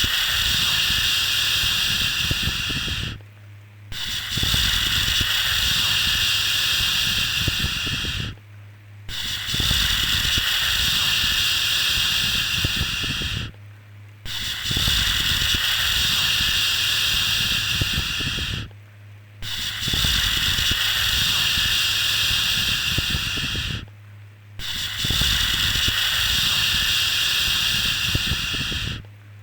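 Long 'shhh' shushing sound for lulling a baby, a steady hiss repeated about every five seconds with a short break between each shush, six times over.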